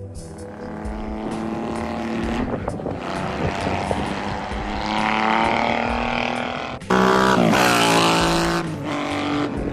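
Motorcycle engine accelerating, its pitch rising, dropping about two and a half seconds in, then rising again as it shifts up. Near the end it cuts abruptly to a louder engine whose pitch falls.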